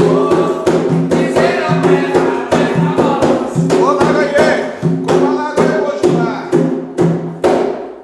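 An Umbanda ponto sung by a group over a steady drum beat with other percussion. The music cuts off right at the end.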